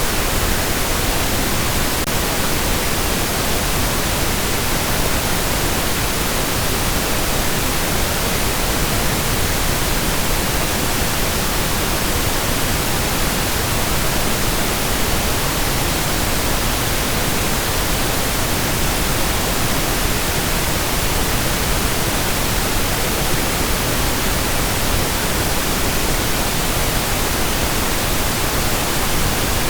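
Steady pink noise: an even, unchanging hiss across all pitches, softer in the highs than white noise.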